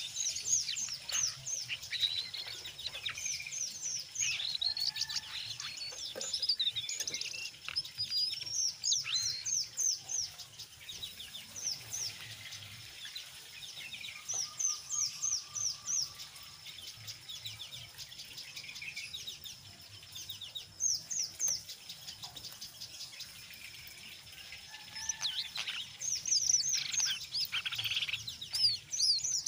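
Jongkangan coklat songbird twittering in quick runs of short, high chirps mixed with clearer call notes. The song comes in busy bursts, thins out a little past the middle and picks up again near the end.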